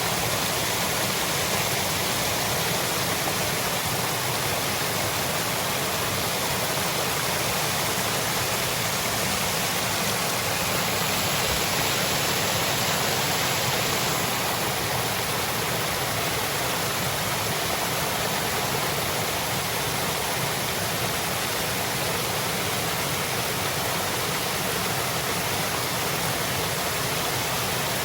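Waterfall: water rushing in a steady, even hiss with no break.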